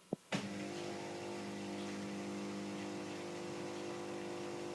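Beko dishwasher starting its program with a click, then its drain pump humming steadily for the quick drain-out at the start of the cycle.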